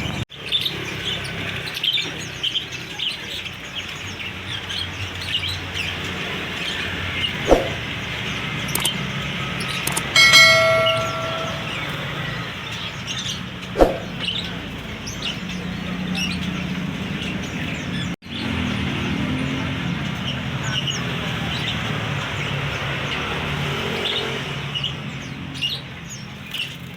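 Many caged songbirds chirping in short calls, over a steady low background hum. A brief, louder tone with overtones sounds about ten seconds in.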